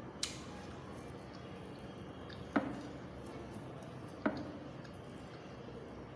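Close-miked eating sounds: soft wet mouth noises with a few sharp clicks, a small one near the start and two louder ones later, about a second and a half apart.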